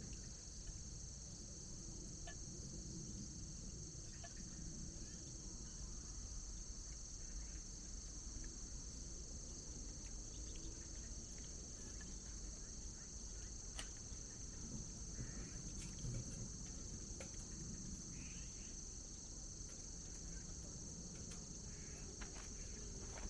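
Steady, high-pitched chirring of an insect chorus, with scattered light clicks and knocks.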